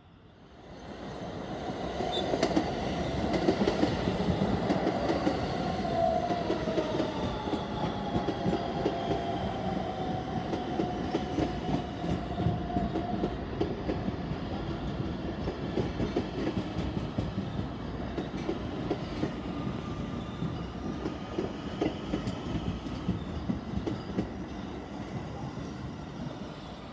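R160B subway train with Siemens propulsion running past on the track, coming in loud within the first two seconds. The wheels clatter over the rail joints, and a traction-motor whine falls in pitch.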